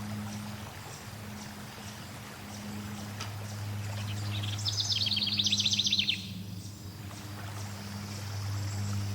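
Flowing water running steadily, with a songbird singing a rapid trill of repeated high notes for about a second and a half, about five seconds in, and fainter bird chirps.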